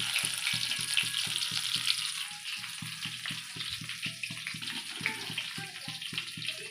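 Batter-coated green chillies (mirchi bajji) deep-frying in hot oil in a kadai: a dense, steady sizzle full of fine crackles, with a low pulsing underneath about four or five times a second.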